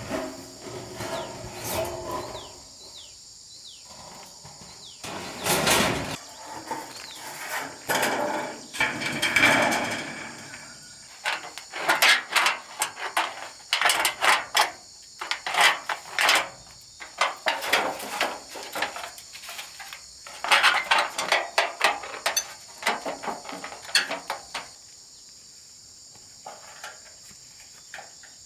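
Repeated sharp knocks of hammering on wood, coming in quick runs of strikes with short pauses between them, over a steady high drone of crickets.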